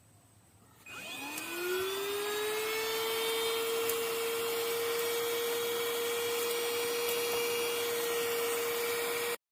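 JAMAY mini cordless handheld vacuum cleaner switched on: its motor spins up with a rising whine about a second in, then runs at a steady high pitch, and stops abruptly near the end.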